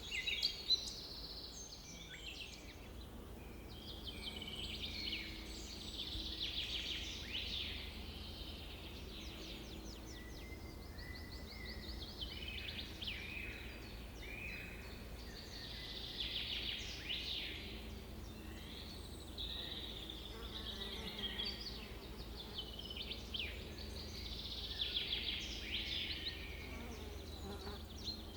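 Several birds chirping and singing rapid trills, in phrases one after another. A faint low rumble sits underneath.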